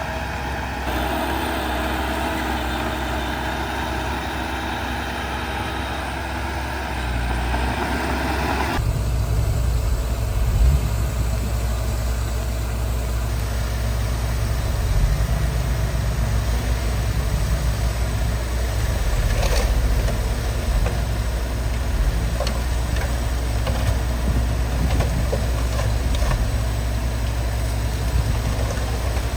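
Heavy diesel earthmoving machinery running steadily. About nine seconds in, the sound shifts abruptly to a deeper, slightly louder engine rumble.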